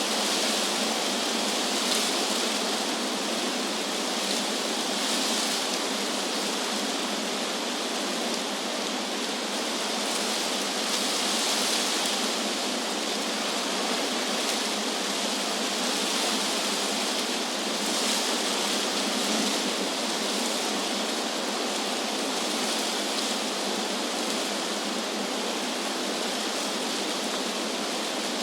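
Wind through trees, a steady rustling hiss of leaves that swells and eases every few seconds.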